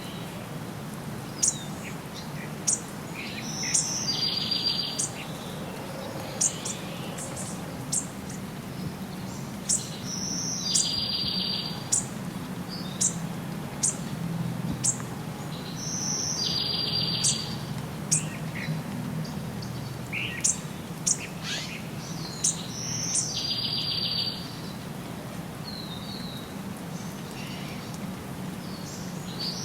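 Songbirds chirping, with many short sharp high chirps and one buzzy song phrase that comes back about every six seconds. A steady low hum runs underneath.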